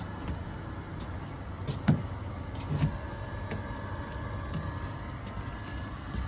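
Steady machine hum with a faint whine, broken by a sharp knock about two seconds in and another a second later.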